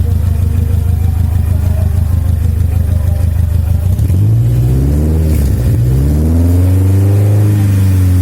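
Sedan car exhaust: the engine idles with a steady low rumble, then is revved twice starting about four seconds in. The second rev rises higher and falls back slowly toward idle.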